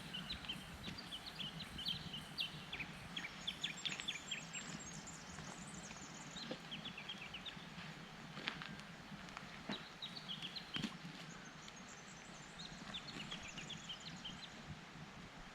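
Birds chirping and twittering in short bursts, over a steady background of flowing river water, with a few sharp clicks between.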